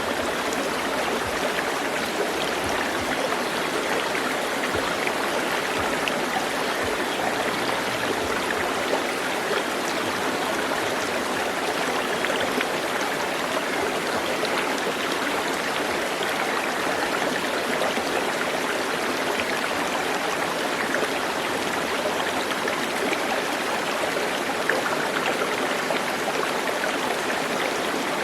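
Steady rushing of running water, an even hiss with no pauses and no clear bird calls above it.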